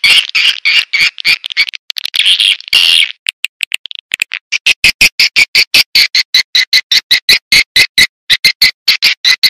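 Swiftlet lure call: a rapid, loud chattering twitter of swiftlets, about six sharp chirps a second, with a brief sparser stretch about three seconds in. This is the kind of call played in swiftlet houses to draw the birds in to nest.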